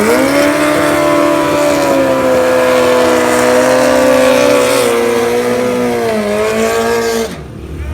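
Racing motorcycle engine running at high revs. The pitch climbs at the start, holds steady, and dips slightly twice near the end before the sound cuts off abruptly.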